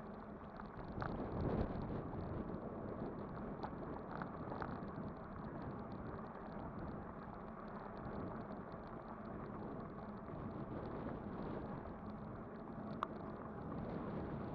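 Steady riding noise from a Kugoo Kirin V5 e-bike on the move: tyres rolling and wind on the microphone, with a faint steady hum and a few light clicks, the sharpest one near the end.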